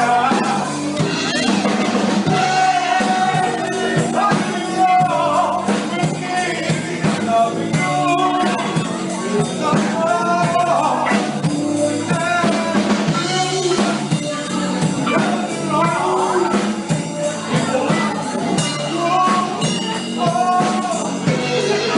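Live soul band playing a song: a singer's voice over drum kit and backing instruments.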